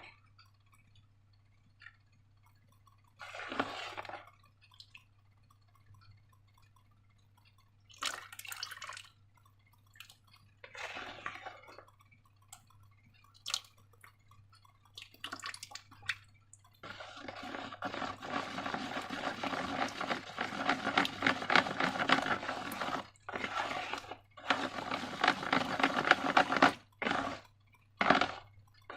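Wet slime being worked by hand: a few short, separate squelches, then about halfway through a long run of continuous sticky squelching and crackling with brief pauses.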